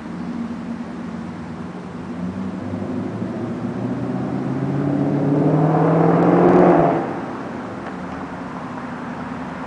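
Ford Crown Victoria Police Interceptor V8 running through a catless 2½-inch X-pipe and Dynomax bullet mufflers. Its exhaust note climbs in pitch and gets louder for several seconds, then drops off sharply about seven seconds in to a steady lower note.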